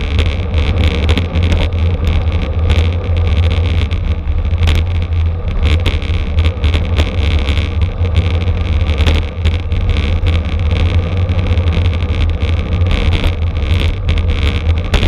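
Wind buffeting a camera microphone riding with a bicycle at race speed: a steady low rumble with road and tyre hiss and frequent small clicks and rattles.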